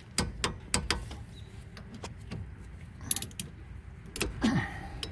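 Torque wrench ratcheting and clicking as the rear brake caliper bolts are tightened to 25 foot-pounds: a string of sharp metallic clicks, with a quick cluster about three seconds in and a brief metal scrape near the end.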